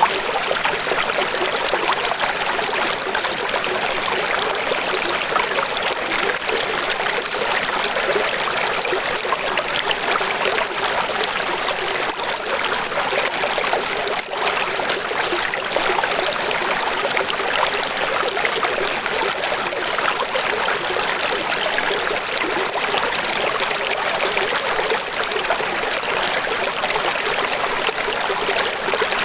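Running water, a steady unbroken rush with little deep rumble.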